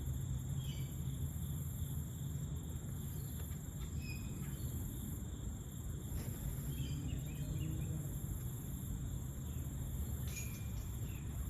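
Wind rumbling on the microphone under a steady high chorus of crickets and other insects, with a few faint bird chirps.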